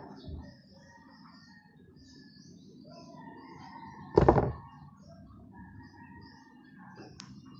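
Birds chirping in the background, with one loud thump about four seconds in and a sharp click near the end.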